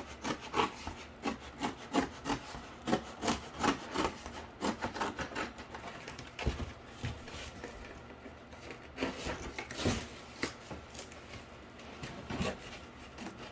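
Scissors cutting cardboard: an irregular run of crisp snips with scraping and rubbing of the card.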